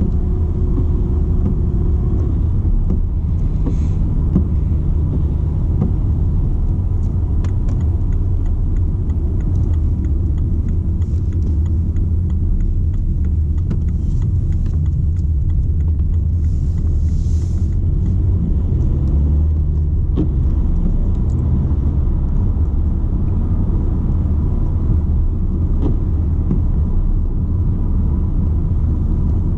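BMW 120d with its 2.0-litre four-cylinder turbodiesel, driving at a steady pace: an even low rumble of engine and road noise, with no revving.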